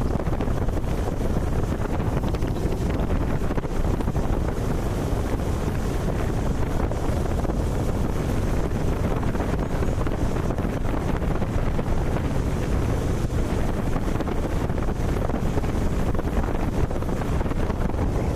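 Steady wind rush buffeting the microphone of a rider on a moving motorcycle, with a dull low road-and-engine rumble underneath.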